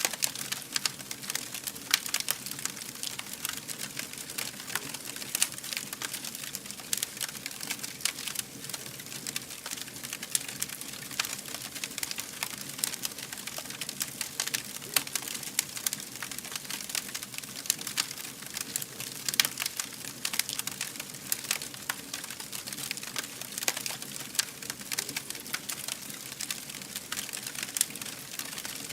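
Wood fire burning with a steady hiss and dense, irregular crackles and pops.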